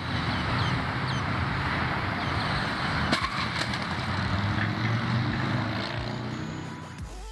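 Road vehicle noise: a steady rush of tyres and engine rumble, with a small click about three seconds in, fading near the end.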